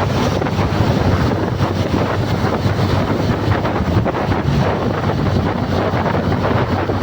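Wind rushing over the microphone: a steady, loud noisy rush with a low rumble underneath.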